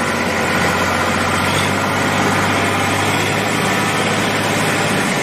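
Tractor engine running steadily at a low, even idle-like drone.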